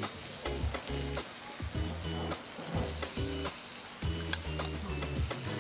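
Sliced button mushrooms, tomatoes, onions and green chilies frying in oil in a wok, sizzling steadily, with scattered small clicks.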